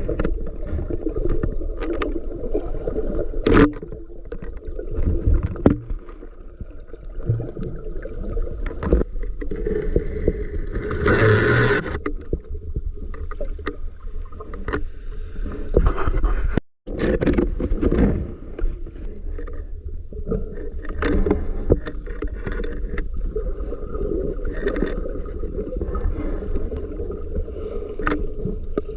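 Water sloshing and gurgling around a camera carried by a swimmer in the sea, a steady low rumble with scattered knocks and clicks. It cuts out for an instant partway through.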